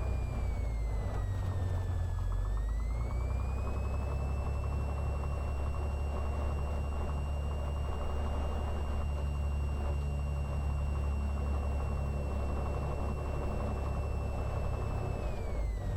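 Cessna 182's piston engine and propeller running steadily at taxi power, a constant low drone. A thin high whine rides over it, sagging a little about two seconds in, rising back and holding, then dropping again near the end.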